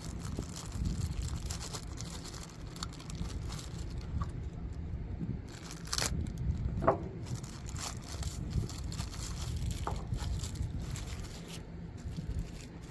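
Plastic packaging crinkling and tearing as a small blind-box figure is unwrapped by hand, with scattered small clicks and one sharp click about six seconds in. Wind rumbles low on the microphone throughout.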